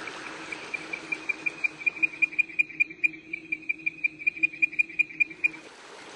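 A frog calling in the breeding season: a rapid, even series of high chirps, about six a second, that stops about a second before the end, over a faint low steady drone.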